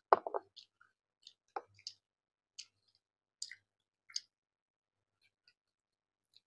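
Eating sounds: short mouth clicks and smacks from chewing rice and fish curry, spaced irregularly about half a second to a second apart and thinning out after about four seconds.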